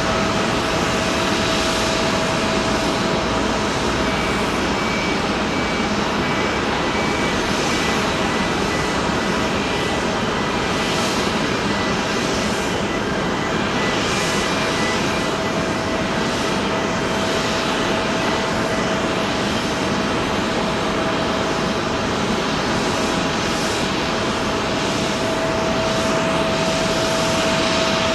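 Jet airliner's engines running at steady power: a loud continuous rush with a steady tone running through it.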